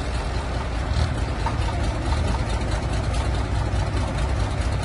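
Heavy diesel tractor engine running steadily at a low, even pitch.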